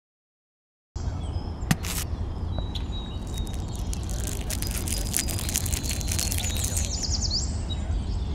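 Outdoor ambience: birds chirping and whistling over a steady low rumble, with a run of sharp clicks in the middle.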